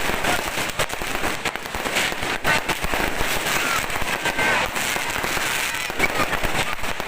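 Fireworks and firecrackers going off continuously: a dense run of overlapping bangs and crackles with no pause.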